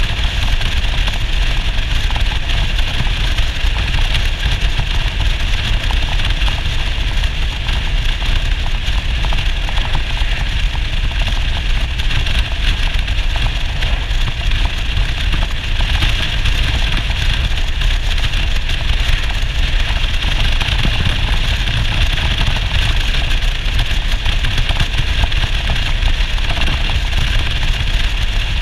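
Yamaha SR400's air-cooled single-cylinder engine running steadily: a dense low rumble with a steady hiss over it, unchanging throughout.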